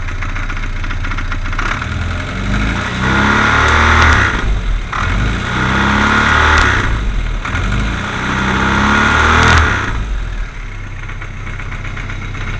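Classic Mini's 1380 A-series engine idling and revved three times, knocking a lot; the owner traces the noise to the flywheel housing.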